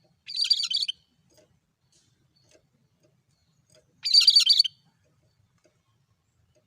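A cucak kerinci singing: two short, rapid, high-pitched phrases about three and a half seconds apart, the same monotonous call repeated.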